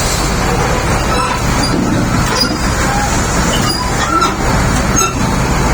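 SD32 crawler bulldozer's diesel engine running steadily, with short high squeaks and clicks over it.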